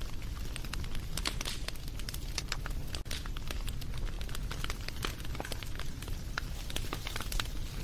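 Wood fire crackling, with frequent irregular pops and snaps over a steady low rumble of the flames.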